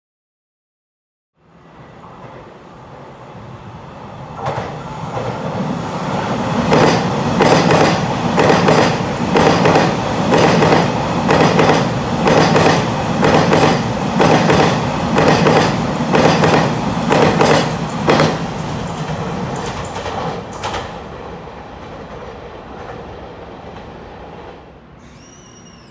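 Taiwan Railway train running past on the track, its wheels clacking over rail joints about once a second as the carriages go by. It builds up, then fades away.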